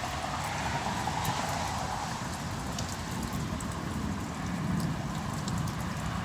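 Light rain falling, with scattered drips ticking, over a low rumble that swells about four to five seconds in.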